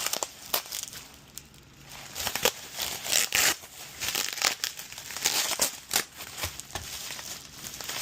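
Packaging being handled and crumpled, crinkling in a run of irregular crackles.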